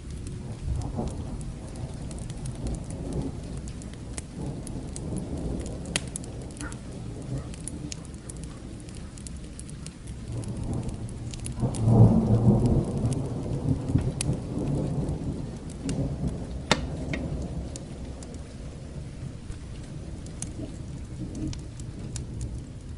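Steady rain with low rolling thunder, which swells to a loud rumble about halfway through and then dies away over several seconds. Occasional sharp crackles from a fire sound over the rain.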